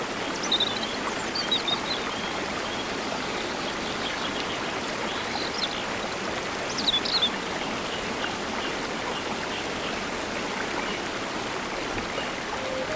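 Rushing water flowing steadily, with a few short high chirps over it about half a second in and again around seven seconds in.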